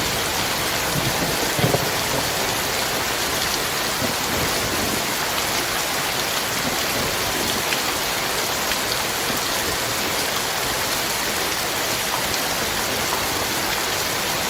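Heavy rain pouring steadily, a dense, even hiss with no break.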